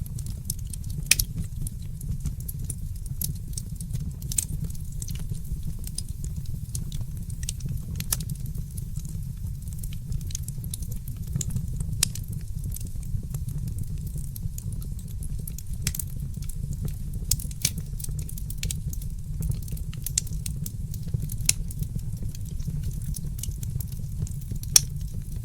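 Fireplace fire crackling, with irregular sharp pops and snaps scattered over a steady low rumble.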